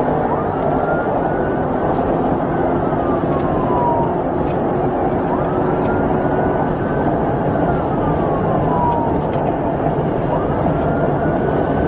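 Steady, loud rushing noise of a vehicle at high speed, with a police siren wailing faintly in slow rising and falling sweeps about every four to five seconds.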